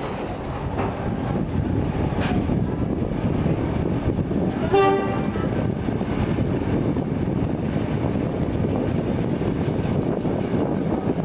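Steady rumble of a train's carriage running along the track, heard from an open carriage window. About five seconds in, the diesel locomotive gives one short toot on its horn.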